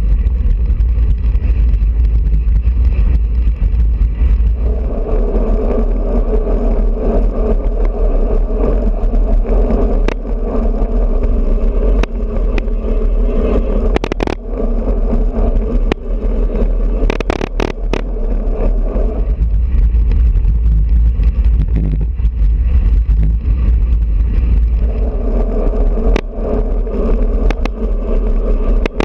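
Wind rushing over a bicycle-mounted action camera's microphone with road and tyre noise at riding speed, broken by a few sharp clicks and knocks.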